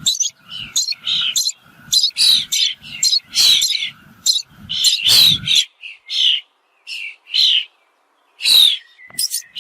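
A bird calling over and over in short calls, about two a second, thinning out in the second half before a quick run of calls near the end.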